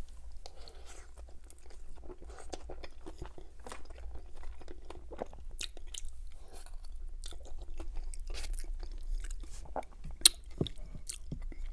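Chewing a mouthful of cheesy baked penne pasta: soft, wet mouth sounds and small irregular clicks, with one sharp click about ten seconds in.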